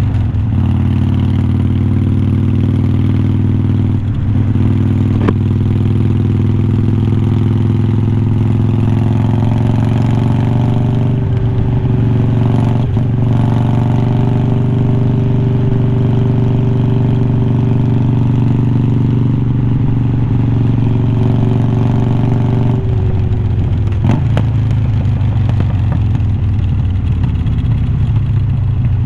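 2020 Harley-Davidson Iron 1200's air-cooled 1200 cc V-twin running through unbranded glass-pack-style slip-on mufflers, holding a steady cruise. About three quarters of the way in the note drops and turns choppy, as when the throttle is rolled off.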